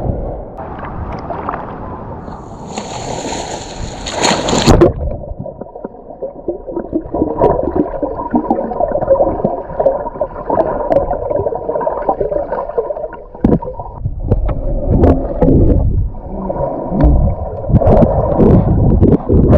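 Water gurgling and sloshing, heard muffled through a submerged waterproof camera. About five seconds in, the brighter splashy sound gives way to a dull, muffled underwater wash as the camera goes under.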